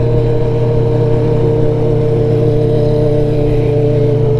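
Steady drone of a vehicle engine and road noise at constant freeway cruising speed, holding an even pitch throughout.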